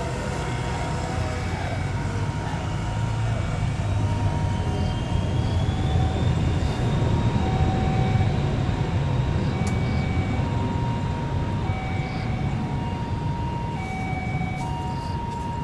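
Private jet's engines and airframe rumbling on the takeoff roll, growing louder over the first half and easing slightly later, with a faint whine rising slowly in pitch. Short electronic beeps alternating between a few pitches repeat about once a second.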